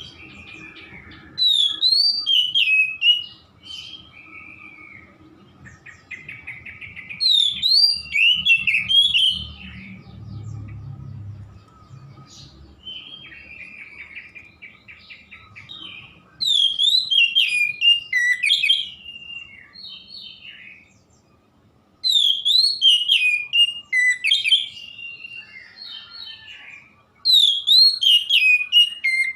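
Oriental magpie-robin singing: five loud bursts of rapid, varied whistled phrases, roughly every five seconds, with softer warbling between them.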